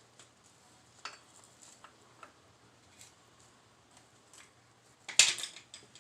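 Scattered light clicks of hand tools and hardware being handled on a motorcycle's rear axle, then a short run of sharp knocks about five seconds in.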